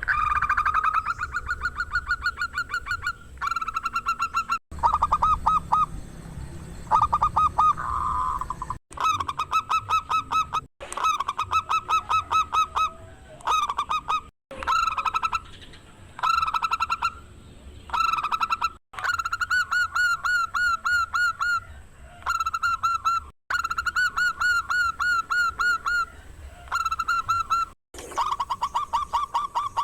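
Zebra dove (perkutut) singing: phrase after phrase of rapid, evenly spaced cooing notes, each phrase lasting one to three seconds, with short breaks between them and a few abrupt cut-offs.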